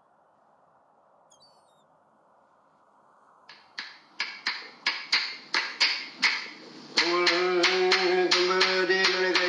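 Aboriginal clapsticks start about three and a half seconds in, struck in an even beat of about three a second. About seven seconds in, a man's voice joins them, chanting loudly on a held note. Before the sticks there is only a faint hiss and one short high chirp.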